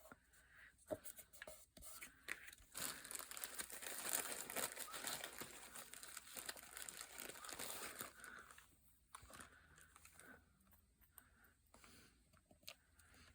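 Paper crinkling and rustling as it is handled, with a dense stretch of crackling for several seconds in the middle and scattered light clicks and taps before and after.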